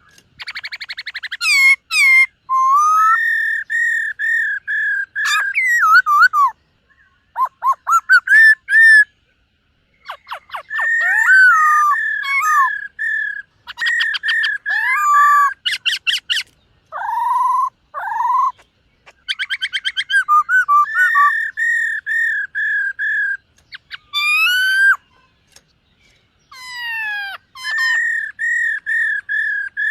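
Black-throated laughingthrush singing a loud, varied song: runs of evenly repeated whistled notes, quick trills and sliding whistles, broken by a couple of short pauses.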